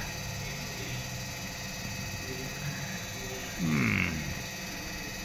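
Steady electric hum of the X-Maxx's small motor cooling fans running. About three and a half seconds in comes a short buzz that falls in pitch.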